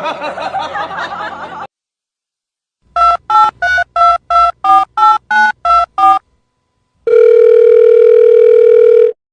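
Telephone keypad dialing: about ten quick touch-tone beeps, followed by a steady tone lasting about two seconds that cuts off suddenly. Before the dialing, a voice is heard for about a second and a half.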